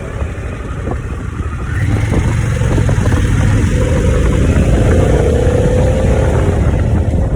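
Harley-Davidson motorcycle's V-twin engine under way, getting louder about two seconds in as the rider opens the throttle, its pitch then rising slowly as the bike accelerates.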